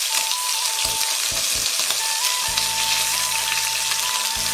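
Chicken wings frying in hot oil in a pan: a steady crackling sizzle.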